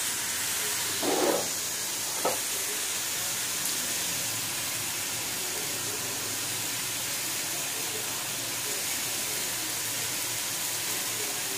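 Chicken and mixed vegetables frying in oil in a wok, a steady sizzling hiss. A brief muffled sound about a second in and a sharp tap about two seconds in.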